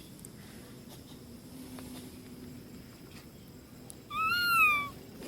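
A monkey gives one loud, high call lasting just under a second, about four seconds in, its pitch rising and then falling.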